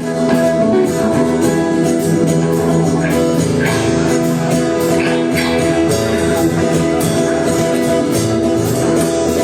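Folk band music: guitars with a tambourine keeping a steady beat.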